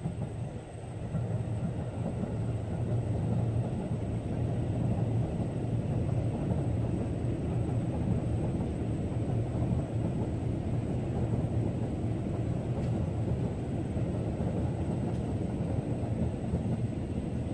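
Train passing over a railway bridge: a steady low rumble that swells in over the first couple of seconds and then holds.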